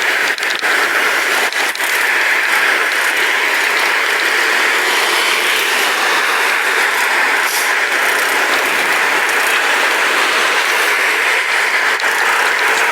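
Steady rushing noise of a pedal bike on the move, with a few sharp clicks and rattles near the start and once in the middle.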